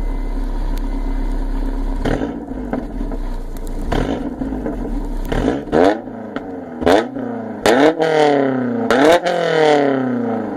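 Honda S2000's inline-four running through an aftermarket exhaust, revved in short sharp blips that rise and fall back to idle. The blips come a couple of seconds apart at first, then in quick succession in the second half.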